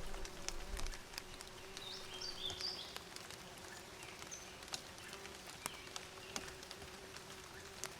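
Honeybees buzzing in a steady drone, with small birds chirping in a quick cluster about two seconds in and a few single high notes later. Scattered faint clicks, and a low rumble in the first second.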